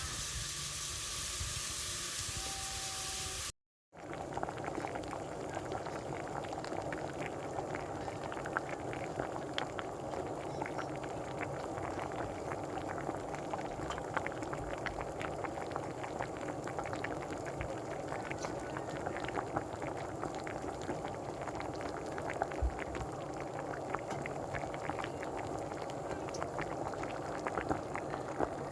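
Sauce bubbling at a steady simmer in a cooking pan, full of small pops. There is a brief cut to silence about three and a half seconds in.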